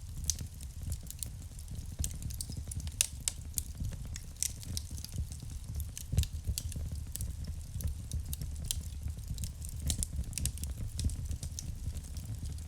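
Wood fire crackling in a fireplace: irregular sharp pops and snaps over a low, steady rumble of the burning, with louder pops about three and six seconds in.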